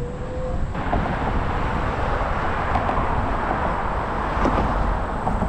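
Wind rumbling on the microphone of a moving bicycle ride, with a steady hiss of tyre and road noise that comes in abruptly about a second in.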